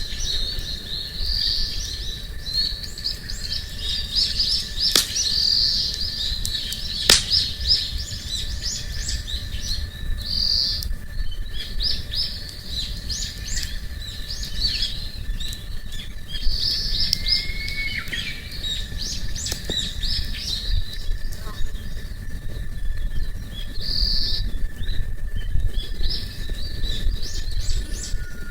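Small birds chirping and calling in a dense, continuous chorus over a low rumble, with a faint steady high tone under them. Two sharp clicks stand out about five and seven seconds in.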